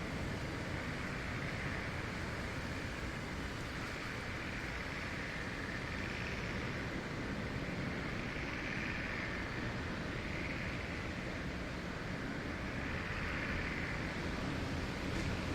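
Wind blowing through forest trees: a steady rushing with soft swells every couple of seconds.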